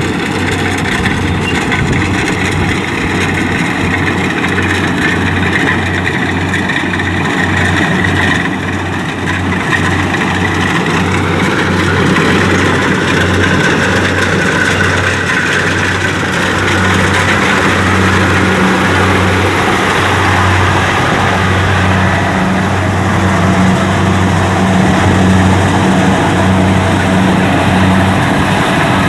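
Kubota DC-70 combine harvester's diesel engine running steadily with its machinery. There is a brief dip in level about eight seconds in, and it runs slightly louder in the second half.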